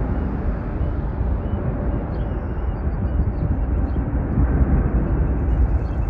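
Steady low rumble of a jet airliner's engines during takeoff.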